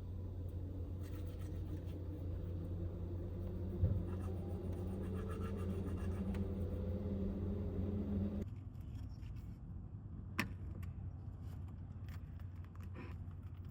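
Kei van driving: a steady low engine and road rumble, with a faint rising whine in the middle. It stops abruptly about two-thirds of the way in, leaving quiet with a few small clicks and one sharp click.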